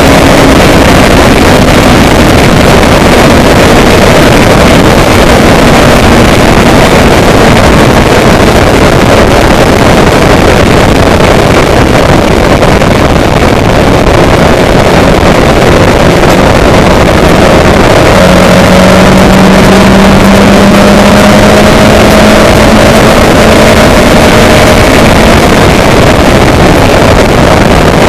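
Loud, steady rush of vehicle travel noise with wind on the microphone and a low engine hum underneath; about two-thirds of the way through, the engine tone grows stronger for several seconds and rises slightly.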